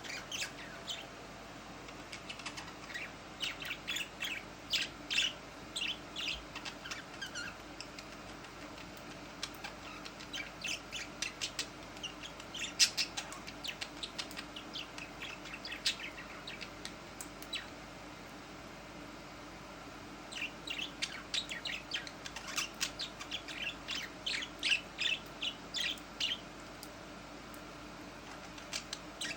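Budgerigars and a blue-headed parrot calling: clusters of short, high chirps in quick succession, with a lull of a few seconds past the middle.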